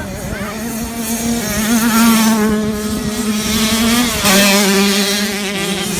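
Motocross dirt bike engine running hard at high revs, a loud steady drone. Its pitch steps down about four seconds in as it gets louder.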